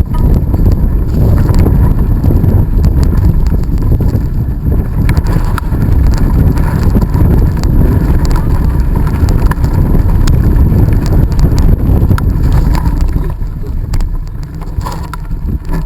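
Heavy wind buffeting on the microphone of a camera carried on a bicycle riding fast down a dirt trail, with scattered clicks and rattles. It eases off a little near the end.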